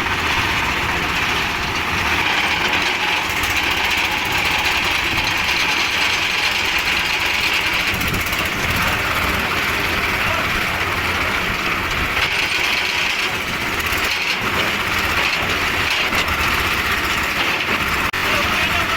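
Engine of a concrete mixer machine running steadily under load, a continuous mechanical din.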